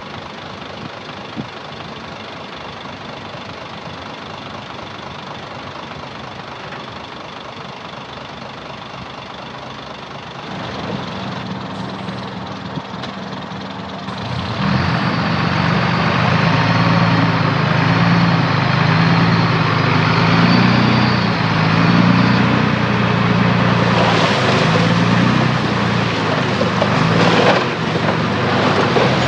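A heavy diesel engine runs steadily at low revs. About ten seconds in it picks up, and from about fourteen seconds in it runs much louder and harder, its pitch wavering up and down as it works under load.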